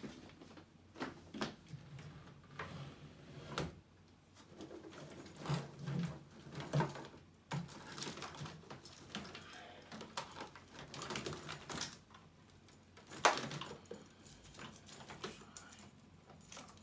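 Hands handling a laptop and its cables: irregular clicks and knocks, a sharper knock about thirteen seconds in.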